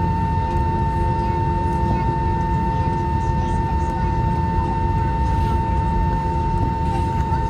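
Airbus A321-231's IAE V2500 turbofan running at idle during a single-engine taxi: a steady whine at one pitch over a constant low rumble.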